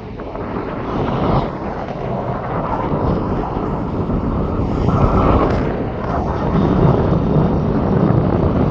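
Low rumble of an aircraft's engines, mixed with strong wind buffeting the microphone.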